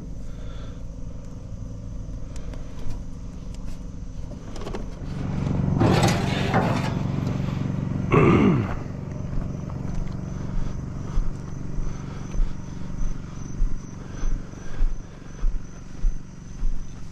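A motor vehicle passes, its noise swelling about six seconds in and its pitch dropping sharply just after, over a steady low engine hum. After that come regular thuds at about one and a half a second, like footsteps.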